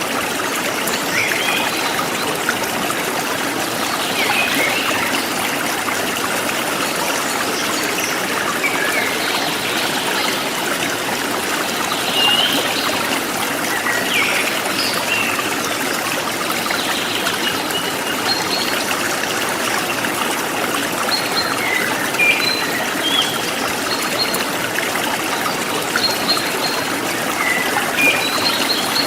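Forest stream trickling steadily, with scattered short bird chirps over it.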